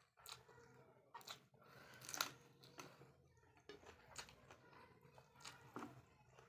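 A person chewing and biting a mouthful of chicken and rice close to the microphone: irregular short mouth clicks and smacks, the loudest about two seconds in.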